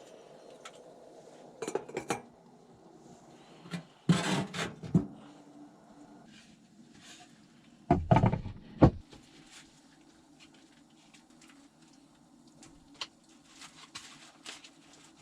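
Cookware and utensils clattering: three bursts of clinking and knocking, the heaviest a dull thump-and-clank about eight seconds in, then a few lighter ticks near the end, over a faint steady low noise.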